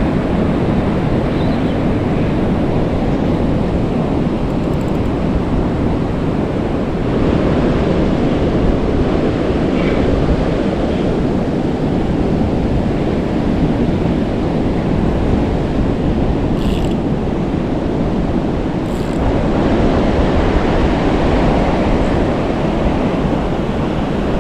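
Ocean surf breaking on the shore, with wind buffeting the microphone in a steady, loud rumble.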